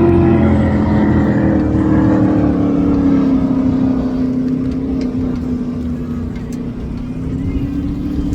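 Powerboat engine running loud. Its pitch slides down over the first three or four seconds, then holds steady as the sound eases a little.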